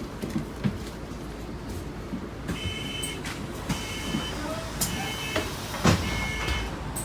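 London bus door warning beeping in repeated bursts of a steady high tone over the bus's low engine rumble, with a sharp knock about six seconds in.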